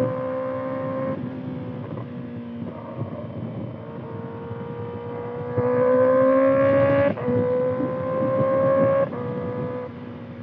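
Kawasaki ZX-6R inline-four running through a Voodoo slip-on exhaust while riding, its note climbing slowly in pitch. It gets louder as the throttle opens about halfway through, drops suddenly in pitch at a gear change a couple of seconds later, then falls off as the throttle closes near the end.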